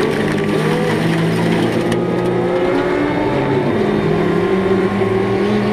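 Several racing car engines running at speed on track, their pitches wavering and gliding up and down as the cars change speed.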